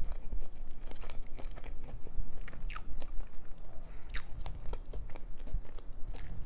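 A person chewing a mouthful of food, with irregular crunches and short wet mouth clicks.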